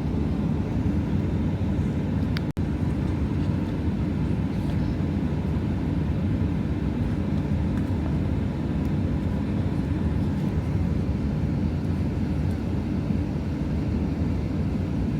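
Steady low drone of an airliner's cabin while the plane waits to depart, from the air conditioning and aircraft systems running. The sound cuts out for an instant about two and a half seconds in.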